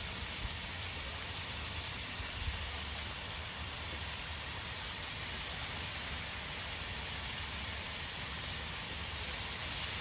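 Bacon sizzling on a gas griddle, a steady, even hiss.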